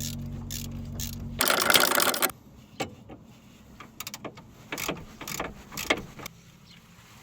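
A power tool whirring steadily for about a second and a half, then a loud rattling burst of about a second. After that come several short ratcheting clicks from tools on the car's front suspension.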